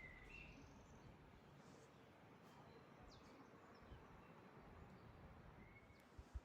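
Near silence in the open air, with a few faint bird chirps right at the start and again near the end.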